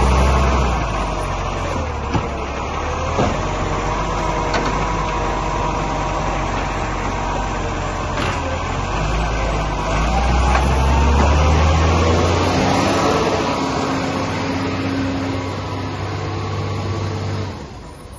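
Garbage truck engine running, with two sharp knocks about two and three seconds in. The engine revs up and rises in pitch around the middle, then drops off shortly before the end.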